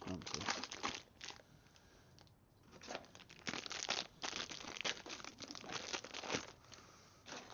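Packaging of a new wheel bearing kit crinkling and rustling as it is handled and unwrapped, in two bouts with a short lull between.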